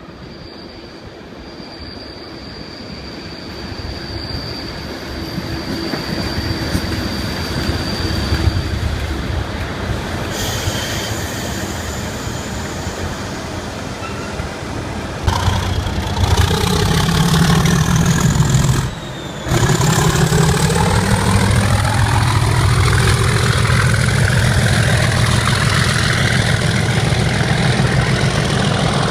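Class 37 diesel locomotive working hard, its English Electric V12 engine getting steadily louder as it approaches. Just past halfway the sound jumps abruptly louder, with a deep, pulsing engine note and a high whistle that rises in pitch, and it stays loud with a brief drop a few seconds later.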